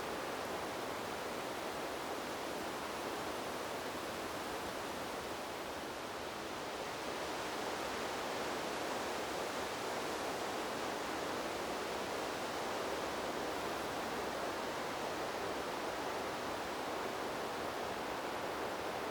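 Wind blowing through trees: a continuous, even rushing hiss that eases slightly, then swells a little about seven seconds in.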